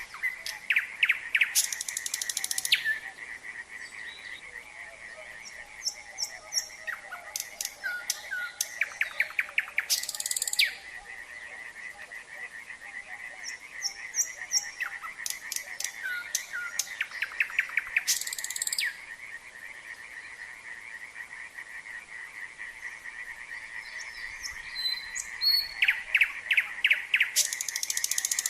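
A nightingale singing in phrases of loud rapid trills, repeated notes and whistles, coming about every eight seconds, over a steady, unbroken chorus of frogs.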